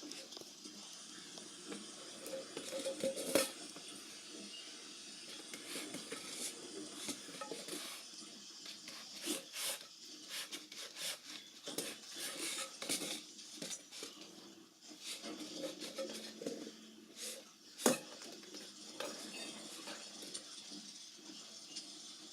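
A crisp packet crinkling and rustling in irregular bursts as a cat works at it, with two sharper loud cracks, one a few seconds in and one later on.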